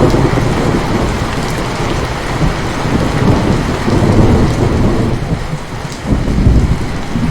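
Steady rain with rolling thunder: a low rumble runs throughout, swelling about four seconds in and again near the end.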